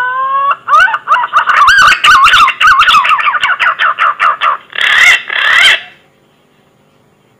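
Green pigeon (punai) lure call. A rising whistle leads into a fast run of warbling whistled notes. It ends in two harsher notes and then stops about six seconds in.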